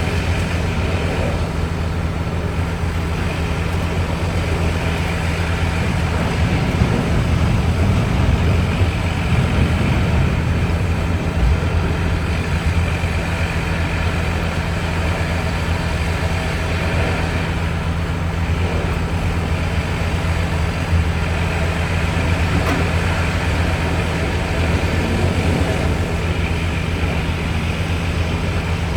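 Logging truck's diesel engine running with a steady low drone.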